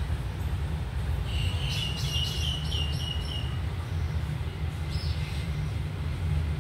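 A bird sings a quick run of about six chirps, then gives one more short call about five seconds in, over a steady low rumble.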